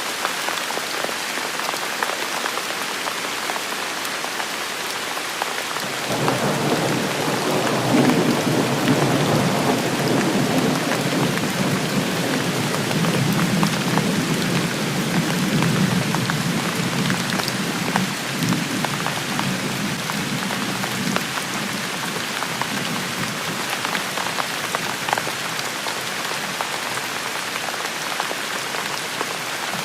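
Steady rain falling on hard surfaces, with a long roll of thunder that comes in about six seconds in, rumbles for some fifteen seconds and slowly fades.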